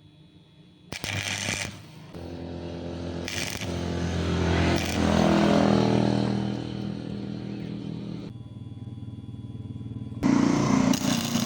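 A motor-driven workshop machine running, its pitch rising and then falling, with a short burst about a second in and a louder stretch near the end.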